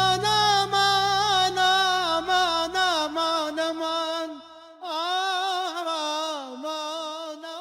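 A male voice singing an Arabic mawwal, long melismatic held notes with wavering vibrato and ornaments, over a low sustained drone. The drone drops out about four seconds in, and after a brief pause the voice goes on alone.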